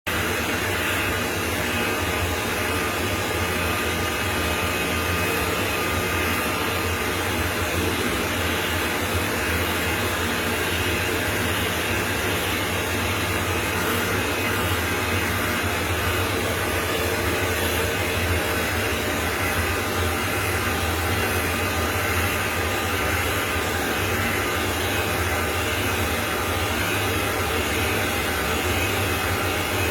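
Dog grooming dryer blowing steadily with an even rushing hiss and a low motor hum.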